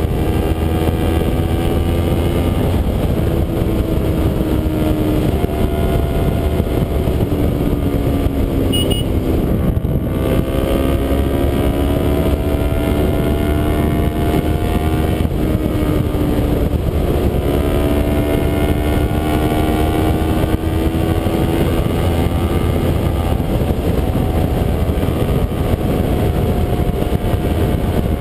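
Kawasaki Ninja 250 parallel-twin engine running under way, its pitch climbing steadily and dropping back at gear changes about ten and sixteen seconds in, over a steady low rush of wind noise.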